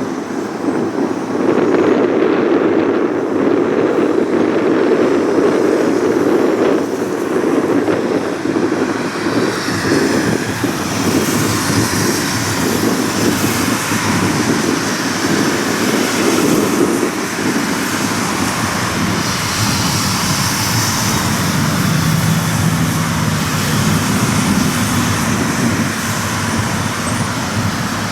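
Jet airliner engines running at taxi power: a steady rushing roar, with a higher whine and hiss joining about ten seconds in.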